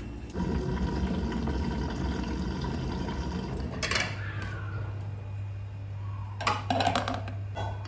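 Water running, with a few clinks and knocks, like dishes or utensils, about four seconds in and again near the end.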